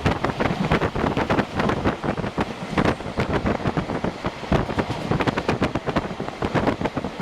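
A moving train heard from on board: steady running noise with rapid irregular clatter and rattling, and wind buffeting the microphone.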